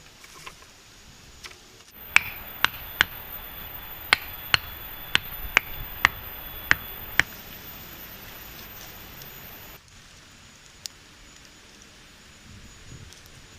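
About ten sharp blows of a tool striking wood, like chopping, coming about two a second and stopping a couple of seconds before a steady hiss cuts off.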